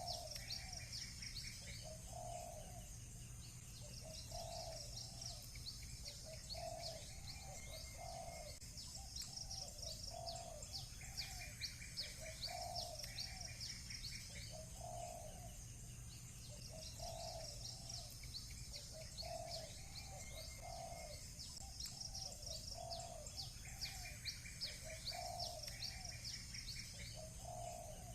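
Doves cooing over and over in low repeated phrases, with small birds chirping and trilling high above them, over a steady low hum.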